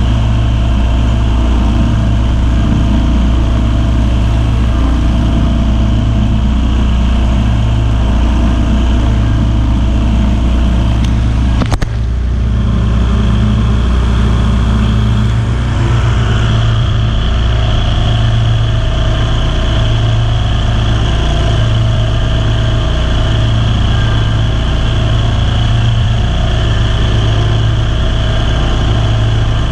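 Kawasaki V-twin engine of a Ferris zero-turn lawn mower running steadily, with a brief sharp break about twelve seconds in.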